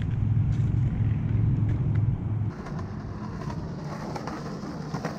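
A motor vehicle's engine runs with a steady low hum and cuts off suddenly after about two and a half seconds. A quieter outdoor hiss follows, with skateboard wheels rolling on concrete and a few sharp clicks near the end.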